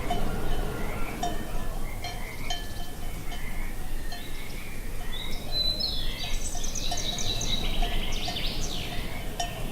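Cowbells on grazing cattle clanking irregularly over a steady low wind rumble, with a bird singing a run of quick high trills past the middle.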